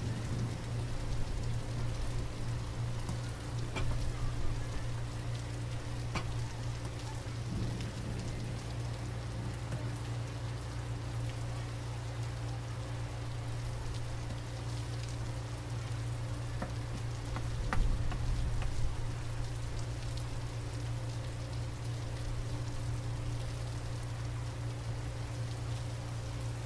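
Beef and vegetables sizzling in a stir-fry pan, a steady hiss, with a few knocks of a spatula against the pan, the loudest near the end of the middle, over a steady low hum.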